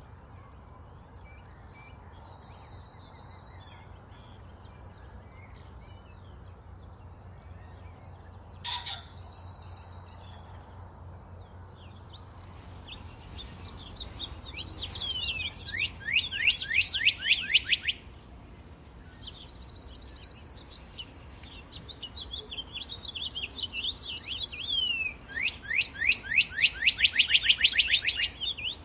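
Songbirds singing: short buzzy trills, and twice, about halfway through and again near the end, a loud song of rapid falling notes repeated many times a second.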